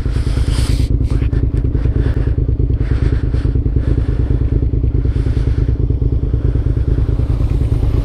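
Suzuki SV650S's V-twin engine running steadily, with a few brief knocks and rustles over it.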